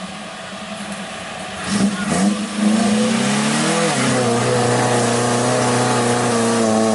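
Off-road jeep engine revving: the pitch climbs from about two seconds in and is held high and steady through the rest, the engine working hard through deep mud.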